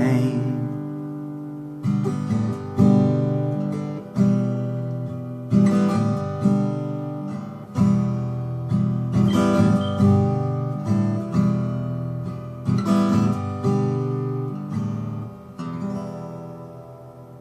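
Recording King RD-127 acoustic guitar strumming chords in the song's outro with no singing. The strummed chords come every second or so, then the last chord rings out and fades away near the end.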